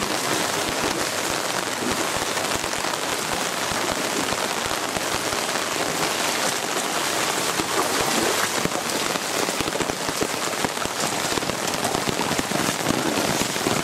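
Heavy rain falling steadily onto leaves and floodwater: a dense, even hiss of countless drops.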